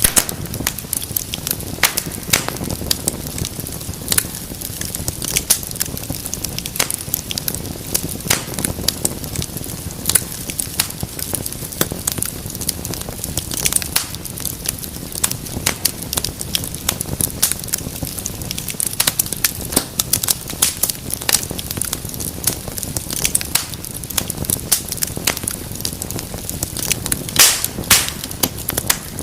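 Wood fire burning in a fireplace, crackling steadily with frequent sharp pops and snaps over a low rumble of flame.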